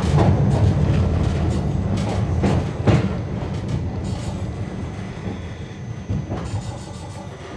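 Narrow-gauge Asunarou Railway train running on the rails, a low rumble with a few sharp clicks of wheels over rail joints, fading steadily as the train moves away.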